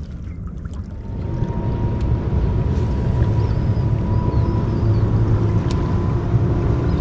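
Boat motor running steadily, growing louder about a second in and then holding at an even hum.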